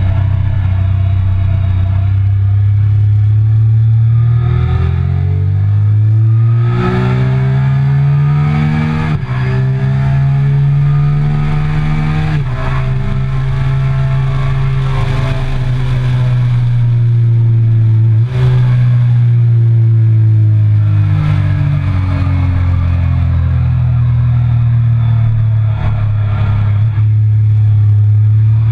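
A Triumph Speed Triple 1050's three-cylinder engine pulls hard through the gears. Its pitch climbs and steps down twice in quick succession as it shifts up, then it holds high revs with heavy wind rush. In the last third the pitch falls steadily as the bike slows for a corner.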